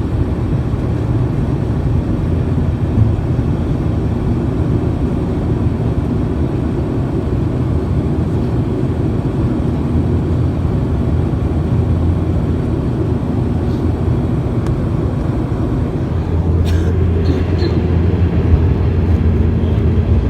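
Airliner cabin noise: the steady low rumble of the jet engines and airflow, growing louder about sixteen seconds in.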